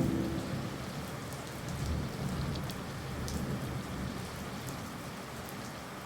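Steady rain falling, with a low, uneven rumble of distant thunder underneath and scattered sharp drip ticks.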